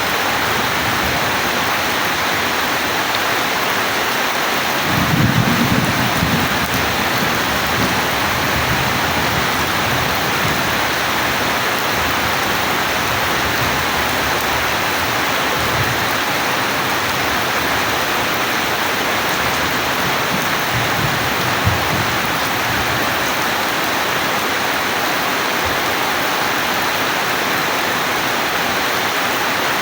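Steady rain falling, with a low rumble of thunder about five seconds in and a shorter, fainter rumble around twenty-one seconds.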